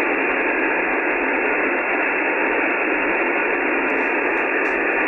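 Steady hiss of an SSB radio receiver on the 70 cm band, an Icom IC-9700: band noise filling the narrow voice passband, with no signal readable over it.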